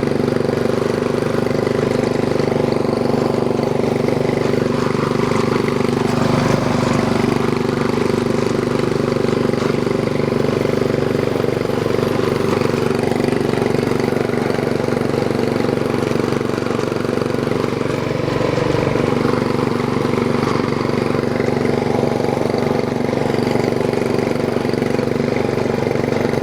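Small single-cylinder Briggs and Stratton 3.5 HP engine on a homemade garden tractor, running steadily.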